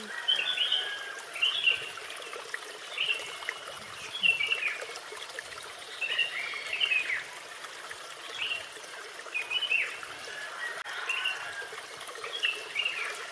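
Birds chirping in short repeated phrases about every second and a half, over a steady trickle of flowing water: a garden ambience.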